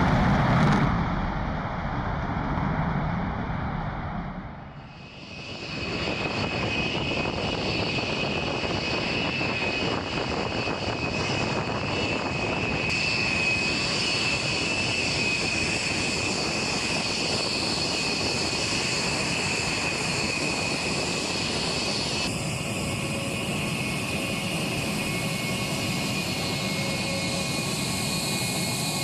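Jet engines of a B-1 bomber, four afterburning turbofans, running with a steady roar and a high whine. The sound fades to a brief lull about five seconds in, then holds steady.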